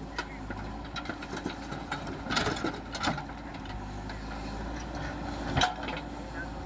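JCB backhoe loader's diesel engine running steadily, with scattered knocks and rattles: a cluster about two and a half seconds in, another at about three seconds, and a sharp knock near the end.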